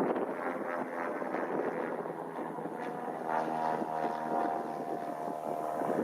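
Cessna light aircraft's piston engine and propeller running at takeoff power, a steady droning hum, with strong wind buffeting the microphone.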